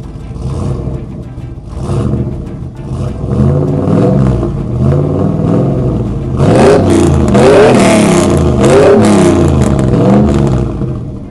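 Engine revving over and over, its pitch rising and falling, getting louder about halfway through and easing off near the end.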